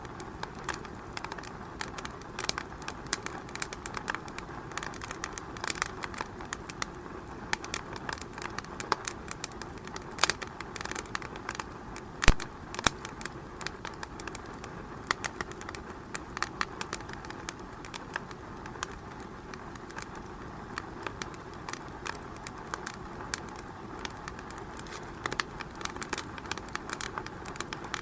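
Wood fire in a fireplace crackling, with irregular sharp snaps over a steady hiss and one loud pop about twelve seconds in.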